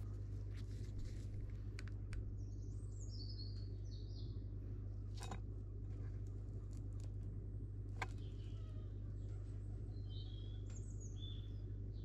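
Small birds chirping in two short bouts, a few seconds in and near the end, over a steady low hum, with a couple of faint clicks in between.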